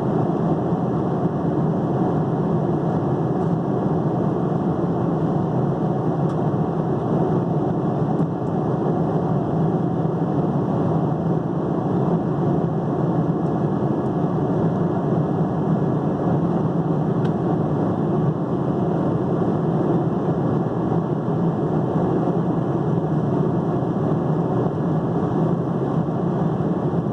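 Airliner cabin noise in flight: the steady, even rush of engines and airflow heard from a window seat, with no change throughout.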